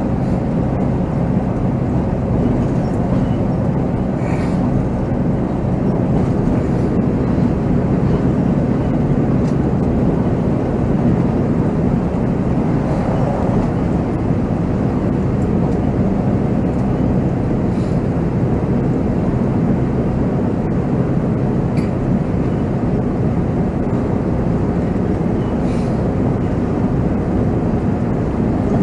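Volvo B7R coach's diesel engine running steadily under way, with road noise, heard from the driver's seat.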